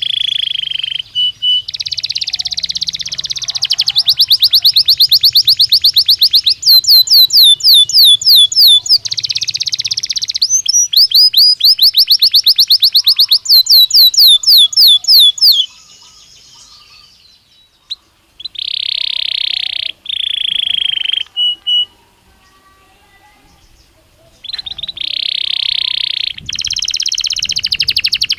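Belgian canary singing: high-pitched song of rapid trills and fast repeated notes, broken by two short pauses of about two seconds in the second half.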